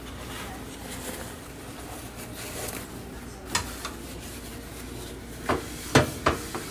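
A wok (kawali) and cooking utensils clattering on a kitchen stove, as the pan is set up to heat. There is a single knock a few seconds in and a quick run of four knocks near the end.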